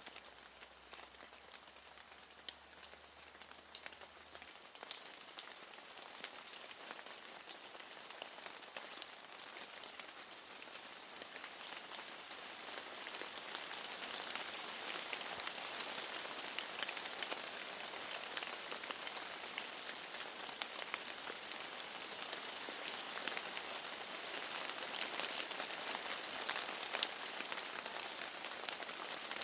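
Steady rain falling, a hiss of noise dotted with many small drop ticks. It grows heavier over the first half, then holds steady.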